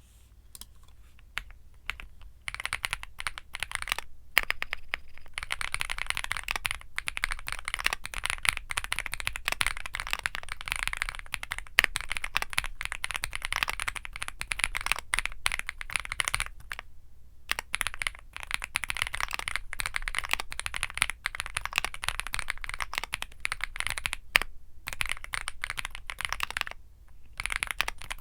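Typing on a Womier SK75 mechanical keyboard with Womier Mint Blizzard switches: a few scattered keystrokes, then a fast, continuous run of key clacks broken by a few brief pauses.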